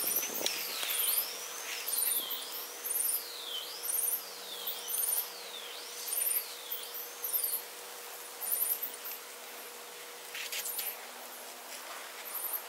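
A songbird singing a repeated series of slurred whistles, each note swooping down and then back up, a little over one a second. The series stops about halfway through, over a light steady hiss.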